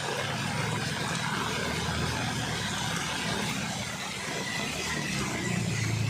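A motor vehicle's engine running steadily at low speed, with a constant hiss over it.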